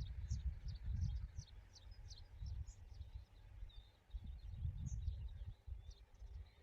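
Small birds chirping in quick, short, high notes, busiest in the first few seconds and then more scattered, over a louder, gusty low rumble of wind on the microphone.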